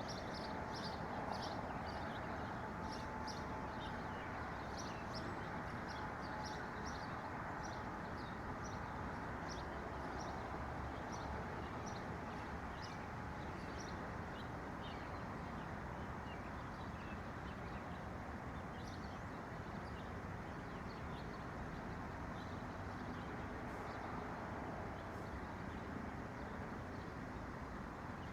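Small birds chirping, many short high chirps in quick runs, busy in the first half and sparser after, over a steady low rushing background noise.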